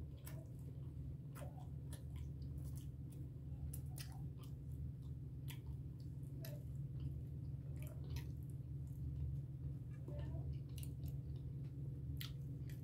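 A person chewing a mouthful of breakfast food with her mouth closed: soft, moist mouth clicks about once a second over a steady low hum.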